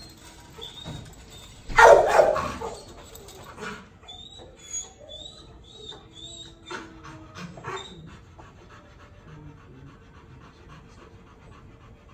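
Dog panting, with a string of short high whines in the middle. There is one loud burst of noise about two seconds in.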